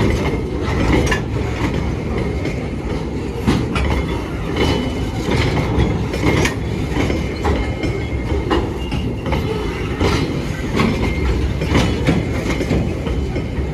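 A loaded freight train rolling past. The wheels give a steady low rumble and an irregular clack over the rail joints, about one to two a second, with faint thin squeals above.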